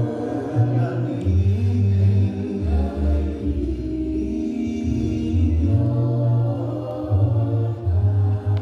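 Church congregation singing a slow gospel hymn together in long, drawn-out notes, over held low bass notes that change every second or two.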